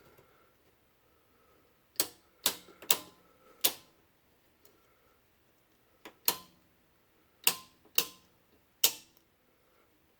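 Circuit breaker switches being flipped in a breaker panel: about eight sharp snapping clicks in irregular groups, shutting off circuits for the night.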